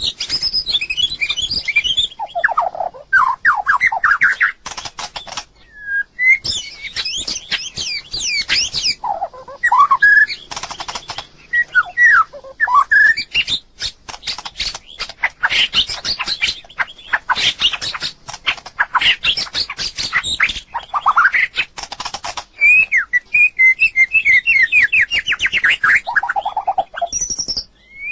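White-rumped shama singing a long, varied song: fast runs of sliding whistled phrases, high and low, broken up by rapid rattling, clicking notes.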